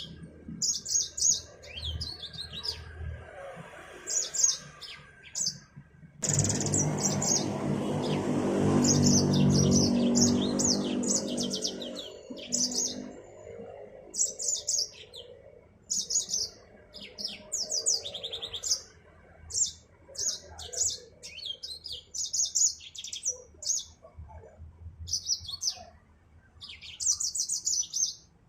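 Mozambique finch (yellow-fronted canary) singing in short, quick, high chirping phrases, repeated with brief gaps. A louder low rumble cuts in suddenly about six seconds in and fades away by about twelve seconds, under the song.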